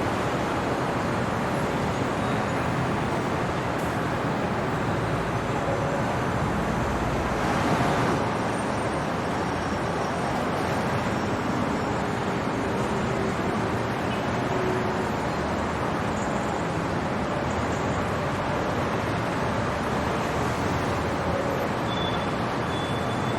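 Steady city traffic noise at night, a continuous hum of passing vehicles, with one vehicle passing a little louder and deeper about seven seconds in.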